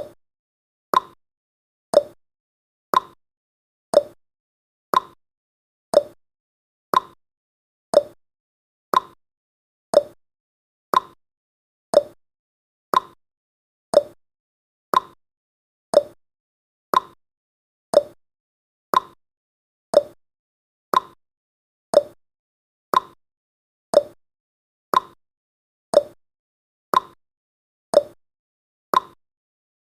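Countdown timer's ticking sound effect: one short, sharp tick every second, evenly spaced, each dying away quickly.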